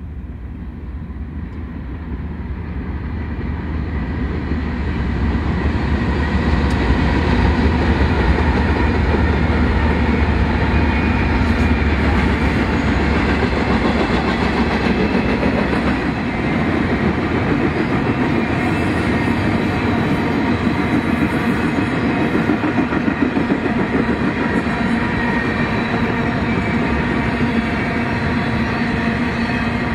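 Train rolling past, growing louder over the first several seconds and then holding steady: a dense rumble with a deep hum in the first half and several constant tones above it.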